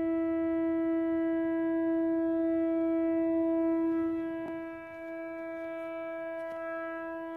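A steady horn-like tone at one unchanging pitch, rich in overtones. It weakens about four and a half seconds in and then cuts off abruptly at the end. It is one of the mystery 'strange sky sounds' of unknown source.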